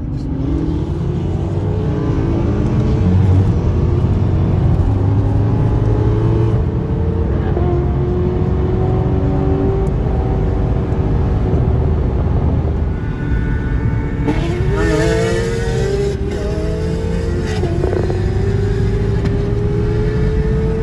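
A 507-horsepower Mercedes-AMG's engine pulling hard under acceleration, heard from inside the cabin over heavy road rumble. Its pitch climbs and drops back at each gear change, with the clearest pull and shift in the last third.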